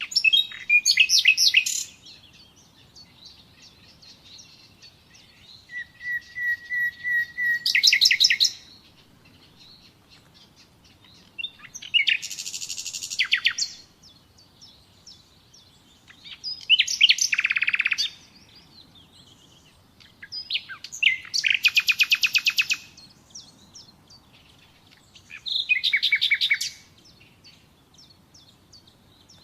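Common nightingale singing: six separate song phrases a few seconds apart, each a burst of fast repeated notes. One phrase opens with a long steady whistle before breaking into a rapid trill.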